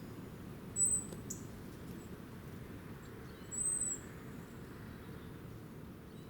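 Two short, very high-pitched bird chirps about three seconds apart, the second slightly longer, over low steady background noise.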